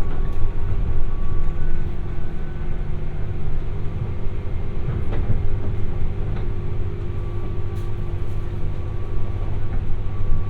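Interior running sound of a JR West 201 series electric motor car (MoHa 201) heard from a seat at the car end. It is a steady low rumble of wheels and running gear, with a faint steady electrical hum and a few light clicks.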